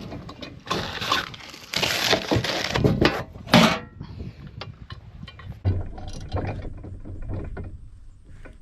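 Ratchet wrench clicking and metal parts scraping as the nut is tightened on a new knife bolted to a mowing machine's cutter bar: a few loud bursts of strokes, then quicker, lighter clicks and taps.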